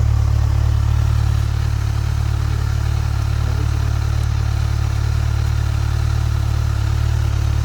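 Kawasaki Z1000's inline-four engine running steadily with an even low rumble.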